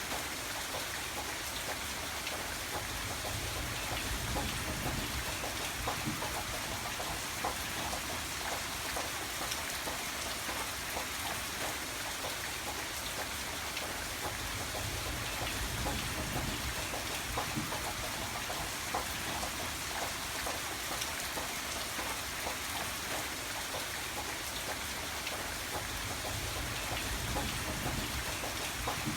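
Steady rain falling, a dense even patter of drops on a surface, with a low rumble that swells and fades a few times.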